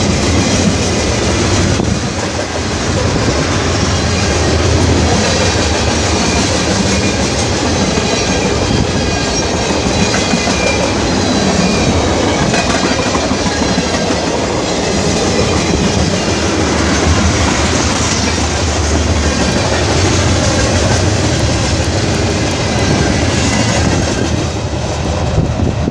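Long freight train's cars rolling past close by: a steady, loud rush of steel wheels on rail that holds throughout, with faint high wavering tones over it.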